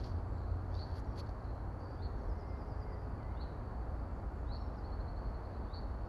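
Small birds calling: short high chirps about once a second, with a brief trill about halfway through, over a steady low rumble and hiss.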